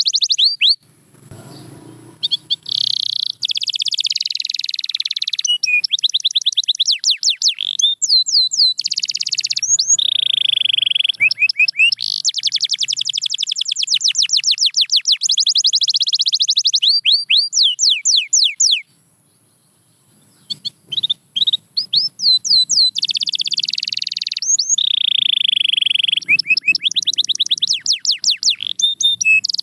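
Domestic canary singing a long, high-pitched song of rapid trills of repeated notes mixed with held whistles. It breaks off twice for about two seconds, once about a second in and again about two-thirds of the way through.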